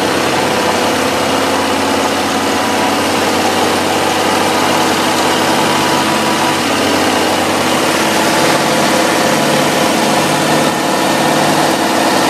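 A car engine runs steadily, driving a red-hot brake disc that spins against its clamped pads, with steady friction noise from the disc.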